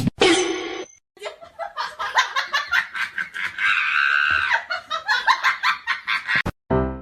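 A person laughing in rapid, repeated bursts. Near the end it cuts to a few repeated piano notes.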